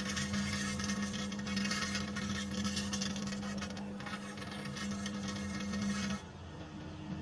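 Microwave oven running with a steady hum and a hiss, heating a lemon; the hum and hiss cut off abruptly about six seconds in as the oven switches off.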